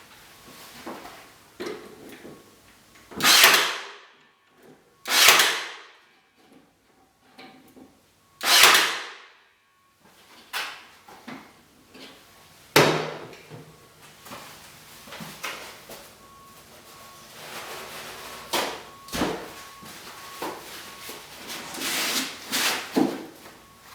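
Pallet boards being worked into a plywood-framed roof panel: three loud noisy strokes of under a second each, then a sharp knock about halfway and a run of smaller clatters and scrapes.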